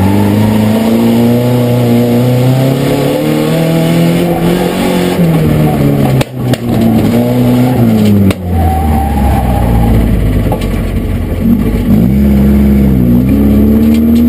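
Mitsubishi Sigma's engine heard from inside the cabin, revving up and down as the car is driven hard, its pitch climbing and falling repeatedly. There are two brief drops in engine sound about six and eight seconds in, and after the second the engine runs lower and heavier.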